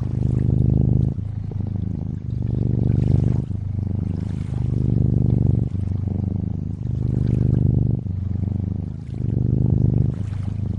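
A cat purring steadily: a low, rapid vibrating purr that swells and eases in turn with each breath in and out. Faint water lapping lies behind it.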